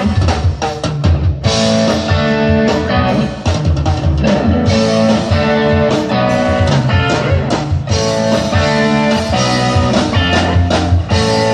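Live rock band playing an instrumental passage: guitar over bass and drum kit, with steady drum hits throughout.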